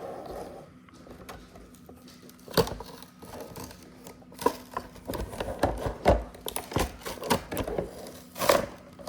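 Plastic and cardboard toy packaging being worked open by hand to free a toy truck: a sharp click about two and a half seconds in, then a run of irregular clicks, crinkles and rustles, the loudest near the end.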